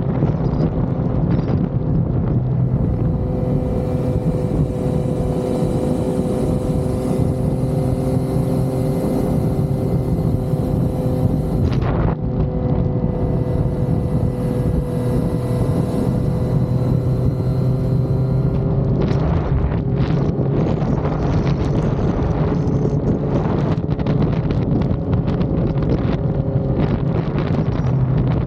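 Yamaha XSR900 inline-three motorcycle engine running at a steady cruising pitch under way, with wind rushing over the microphone. The note breaks briefly about twelve seconds in, then holds again, and it wavers more in the last third.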